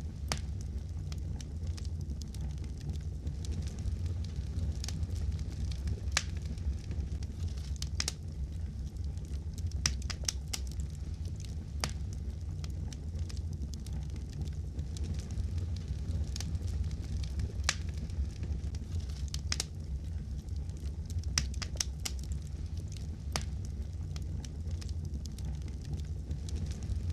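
Wood fire crackling in a fireplace: scattered sharp pops and snaps over a steady low rumble of flames.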